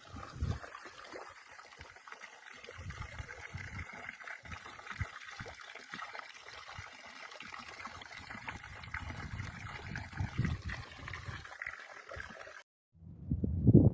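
Running stream water trickling steadily, with irregular low gusts of wind buffeting the microphone. Near the end the sound cuts off abruptly, and a muffled low wind rumble follows.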